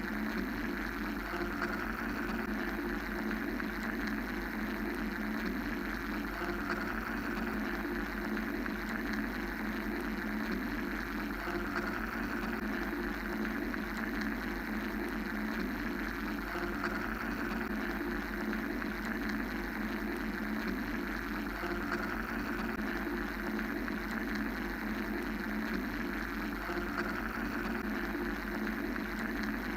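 Steady mechanical-style white-noise drone: a continuous low hum and hiss, with the upper band swelling and easing gently every few seconds.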